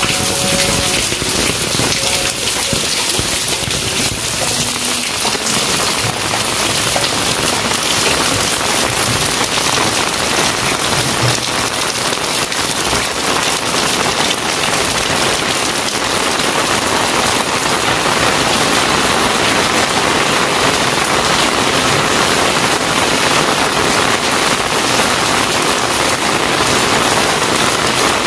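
Heavy rain falling steadily and pattering on pavement, walls and fences: a dense, even hiss of countless drops, sounding a little fuller about halfway through.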